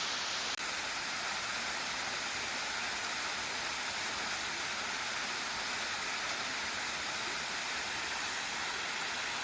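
Steady, even rush of a small waterfall pouring into its pool, with one very brief dropout about half a second in.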